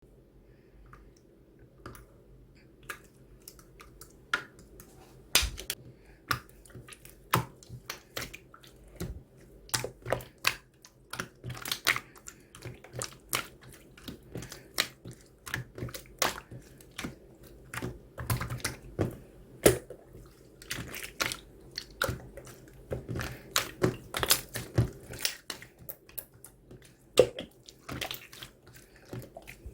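Hands squishing and poking slime, making irregular sticky clicks and pops, a few each second, over a faint steady hum.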